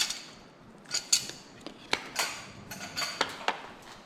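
Small metal tools and parts clinking and rattling as they are handled: a string of about eight sharp, irregular clinks with a short metallic ring, with no drill motor running.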